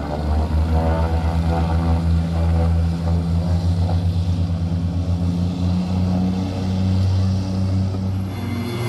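Seaplane's propeller engine running steadily nearby: a loud, even drone with a fast low throb.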